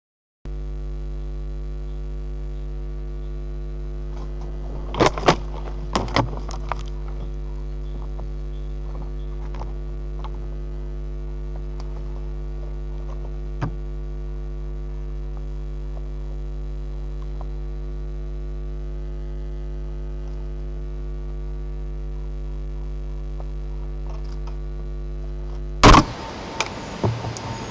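Steady electrical mains hum in the nest camera's audio feed, with a few sharp clicks about five to seven seconds in and one more in the middle. Near the end the hum cuts off suddenly with a loud pop.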